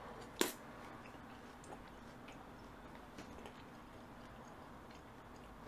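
A person chewing food with the mouth closed, faint, with scattered small ticks and one sharp click about half a second in.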